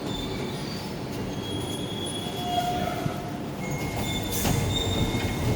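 Docklands Light Railway train running on the rails, heard from inside the carriage, with a steady rumble and thin high wheel squeals that come and go. The running gets louder near the end as the train comes into Cutty Sark station.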